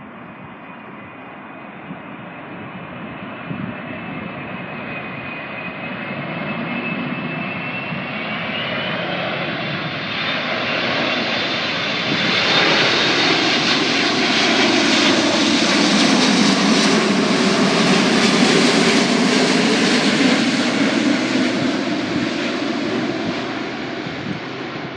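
Airbus A380's four jet engines on landing approach, passing by: a steady jet noise with a high fan whine that rises in pitch. It grows louder to a peak around the middle, then fades as the aircraft moves away.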